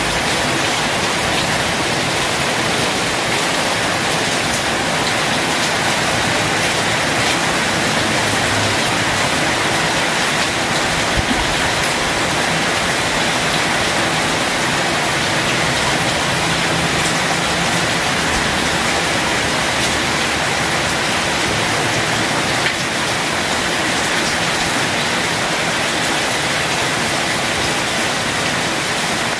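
Heavy rain falling steadily onto concrete and roofs.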